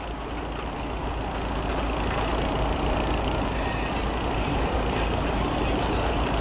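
School bus engines running, a steady low rumble that grows slowly louder.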